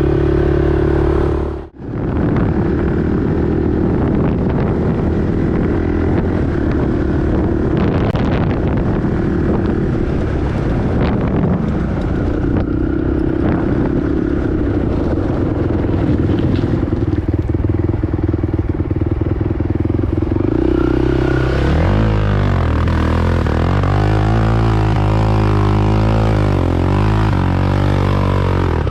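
Honda TRX450R quad's single-cylinder four-stroke engine running steadily under way, with the sound cutting out briefly about two seconds in. Over the last several seconds the engine speed rises and falls repeatedly as the throttle is worked.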